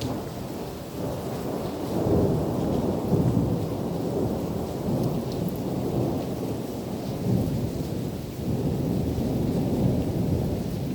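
Thunder rumbling in a heavy thunderstorm, over steady rain. The rumble swells about two seconds in, eases briefly late on, then builds again.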